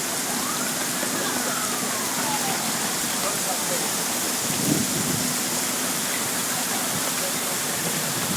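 Heavy rain falling steadily in a summer thunderstorm, an even, dense hiss. A faint tone rises and falls in the first couple of seconds, and there is one short thump about halfway through.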